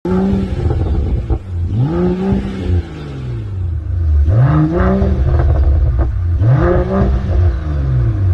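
Mercedes-AMG GT's V8 being revved through a Top Speed Pro1 AVT aftermarket exhaust. The engine is blipped three times, the pitch rising and falling each time, between a low, steady rumble.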